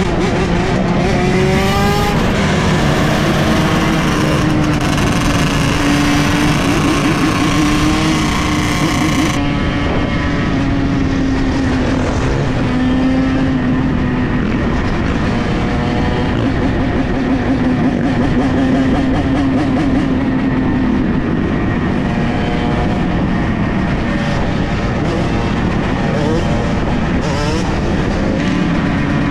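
A pack of dirt bike engines running together, revving up and down, with a rise in pitch at the start.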